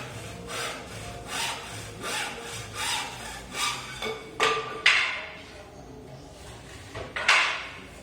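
Repeated scraping strokes, about two a second, then three louder, sharper scrapes, the last one near the end.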